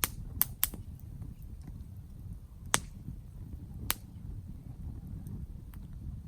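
Wood campfire crackling: five sharp pops of burning wood, three close together in the first second and two more about three and four seconds in, over a steady low rumble.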